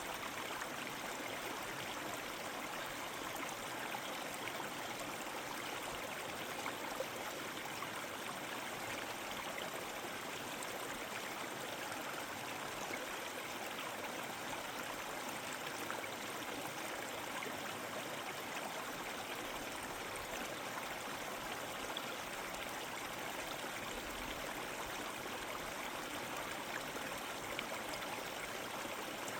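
A river flowing: a steady, even rush of water that holds unchanged throughout.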